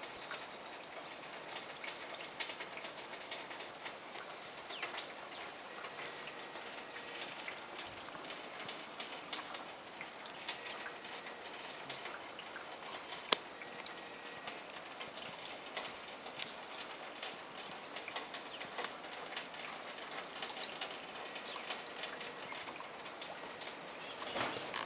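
Steady patter of falling wet snow and drips landing on surfaces: a dense scatter of small ticks over a soft hiss, with one sharper tick about 13 seconds in.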